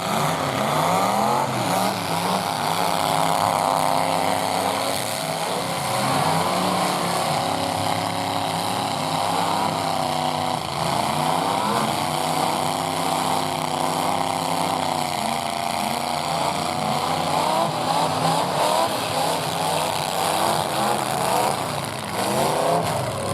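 Several full-size pickup truck engines revving up and down at once, their pitches overlapping and shifting.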